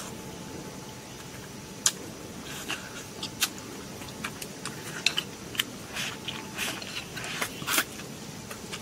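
Close-up chewing and biting on spicy dry-pot duck head and rice, with scattered sharp clicks and crunches over a steady low background noise.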